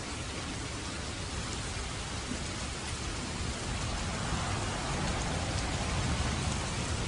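Steady rain falling in a dense, even hiss of drops, swelling slightly louder past the middle.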